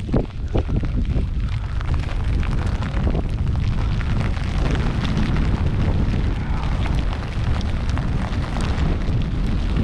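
Wind buffeting the microphone outdoors: a steady loud low rumble with hiss, and a few sharp knocks in the first second.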